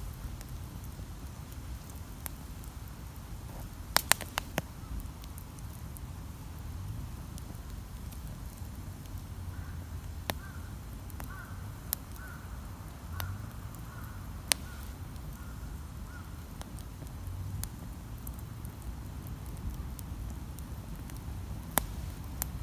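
Wood campfire crackling, with sharp pops (a quick cluster about four seconds in, single louder ones later) over a low steady rumble. In the middle, a bird calls about eight times in a row.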